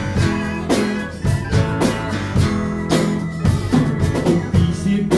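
Live rock band playing an instrumental passage between sung lines: electric guitar and bass over a drum kit keeping a steady beat.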